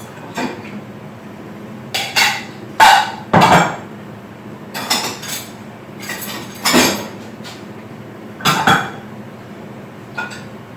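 Kitchen clatter of dishes, pans and utensils: about ten irregular clinks and knocks, the loudest around three seconds in, over a faint steady hum.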